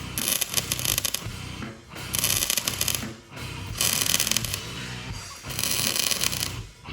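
Metal-core wire-feed welding arc crackling in four short runs of about a second each, stopping briefly between them, as hooks are welded onto a steel water tank. Background music plays underneath.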